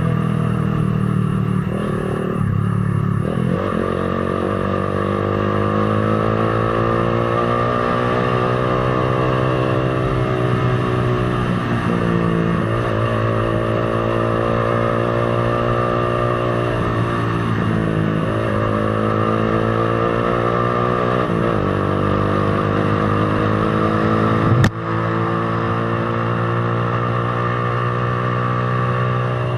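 Z200 motorcycle engine running while riding, its pitch rising and falling several times with throttle and gear changes. A single sharp click stands out near the end.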